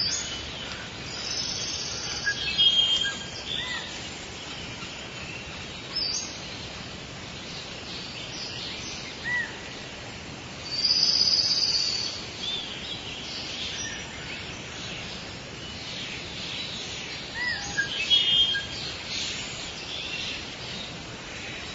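Mixed birdsong over a steady background hiss: many short chirps and whistles from several birds, with the louder calls clustered in a few bouts, one a longer buzzy trill about eleven seconds in.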